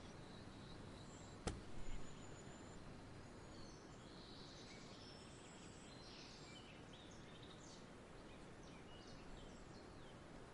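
Faint outdoor nature ambience: a steady low background hiss with soft, high bird chirps here and there. A single sharp click about one and a half seconds in is followed by a brief low knock.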